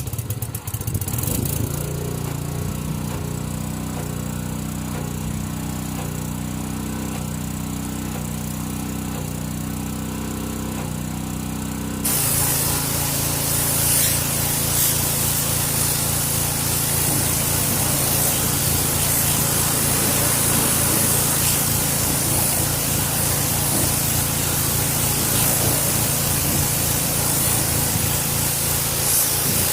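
Gas-engine pressure washer running steadily; about twelve seconds in, the spray starts and a loud hiss of water and foam from the foam cannon joins the engine.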